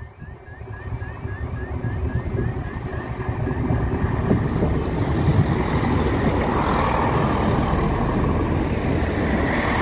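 Level crossing alarm warbling in a quick repeating pattern as a Great Western Railway Class 165 diesel multiple unit approaches. The train's rumble grows louder and drowns the alarm from about three seconds in as the unit runs across the crossing.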